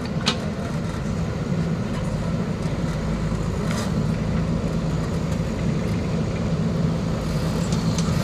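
Diesel engine of a heavy machine, a tractor or backhoe loader, running steadily with a low rumble and a held hum, broken by a couple of short sharp clicks.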